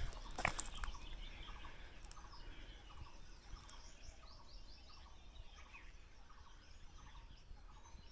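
Birds calling in forest: a faint short note repeated about twice a second, joined a little past the middle by a quick run of higher chirps.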